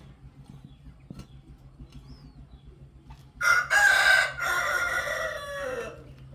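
A rooster crowing once, starting about three and a half seconds in. The call lasts about two and a half seconds and drops in pitch at the end.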